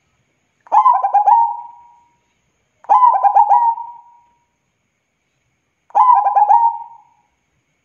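Zebra dove (perkutut) cooing: three song phrases, each a quick run of rolling notes lasting about a second.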